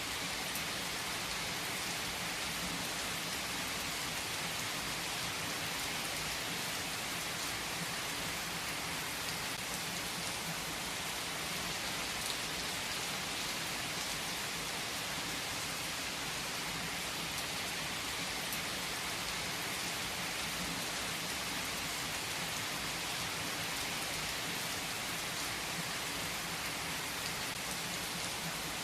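Steady rain falling on a surface: an even hiss of rain with scattered drop ticks, without any swell or rumble.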